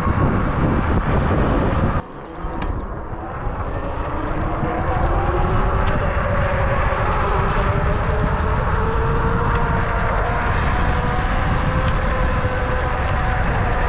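Wind buffeting and road rumble while riding a Wired Freedom e-bike. About two seconds in the level drops sharply, then a whine rises in pitch over a few seconds as the bike picks up speed and holds fairly steady.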